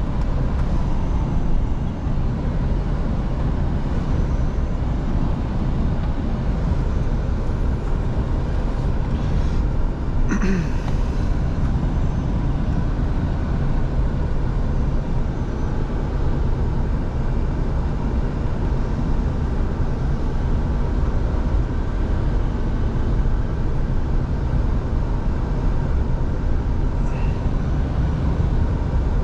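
Scania V8 diesel truck driving at a steady pace: a continuous low engine and road rumble. A brief sharper sound comes about ten seconds in.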